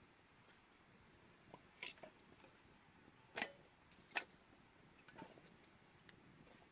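A few short, sharp clicks and taps, four or so spread a second or so apart, over a quiet background.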